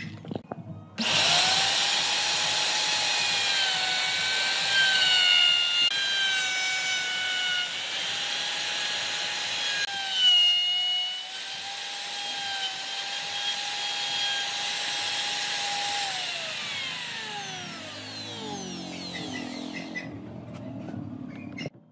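Electric power tool working wood: the motor starts abruptly with a steady whine that dips in pitch a few times as it bites under load, then is switched off and winds down with a falling pitch until it stops.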